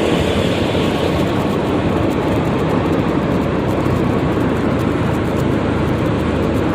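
Steady wind and road noise on the microphone of a moving Yamaha XMAX 300 scooter, with the engine running underneath at an even speed.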